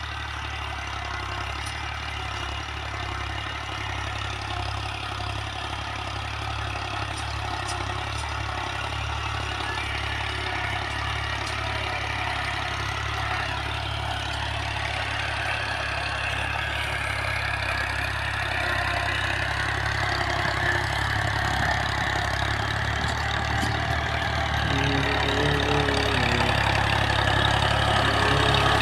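Diesel engine of an Al-Ghazi New Holland 640 tractor running steadily, growing gradually louder toward the end.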